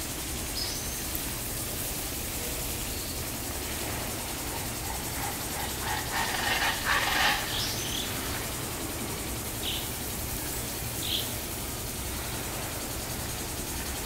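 Birds calling: a few short, high chirps and a louder burst of calls about six to seven seconds in, over a steady outdoor hiss.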